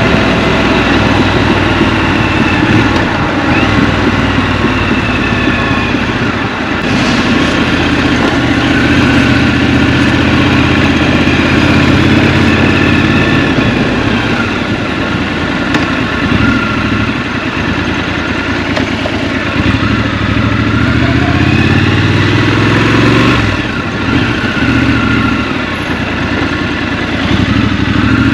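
Scrambler motorcycle engine running in city riding, its revs rising and falling several times as it accelerates and eases off.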